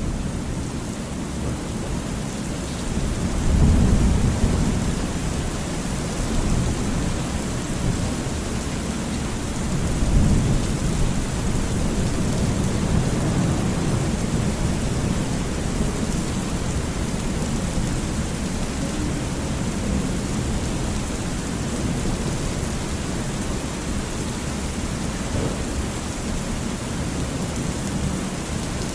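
Thunderstorm ambience: steady rain with low rolling thunder that swells twice, about a third of the way in and again a little later.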